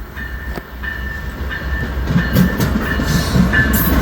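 Amtrak passenger train led by a Siemens Charger diesel locomotive approaching and passing, its rumble and wheel clatter over the rails getting louder through the second half.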